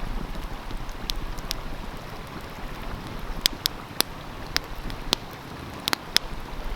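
Wood fire crackling, with sharp single pops scattered over several seconds and coming more often in the second half, over the steady rush of a stream.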